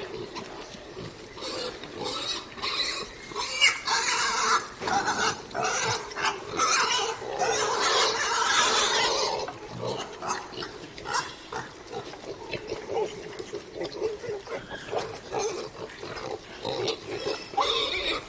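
Pigs calling in a run of short, uneven calls, with one longer, louder call about seven to nine seconds in.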